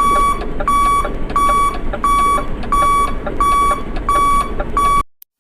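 Electronic beeper sounding a train of even, single-pitched beeps, about three every two seconds, cutting off suddenly about five seconds in.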